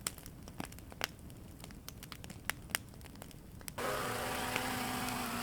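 Campfire crackling, with sharp wood pops at irregular intervals. About two-thirds of the way in, a louder steady rushing noise with a low hum cuts in suddenly and runs on.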